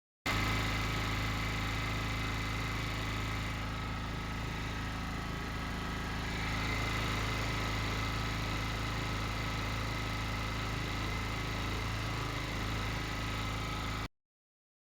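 KP3500 portable generator's petrol engine running at a steady speed, test-run after a new AVR and brushes were fitted to cure low output voltage. The sound starts and stops abruptly, with a slight rise in level about halfway through.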